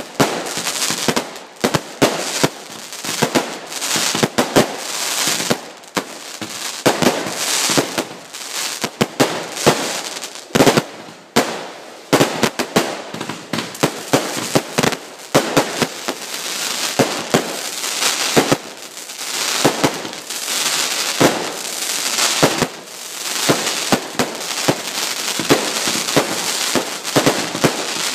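A firework display in full flow: rapid, irregular bangs from several aerial shells and multi-shot barrages going off at once, many a second, with a steady hiss between them.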